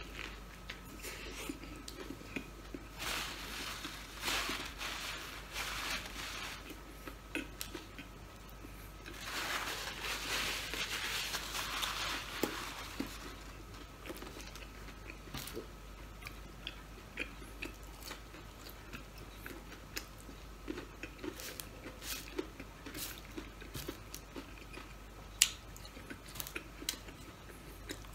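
A person biting into and chewing a burger close to the microphone, with many small wet mouth clicks and smacks. There are two longer spells of louder, crunchier chewing, about three and nine seconds in.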